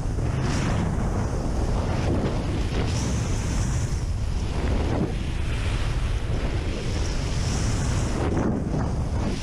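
Loud, steady wind buffeting the microphone, with gusts swelling every two to three seconds.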